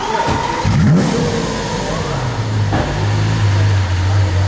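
Lamborghini sports car engine through an aftermarket exhaust, just started: it revs up once about a second in, then settles into a steady idle.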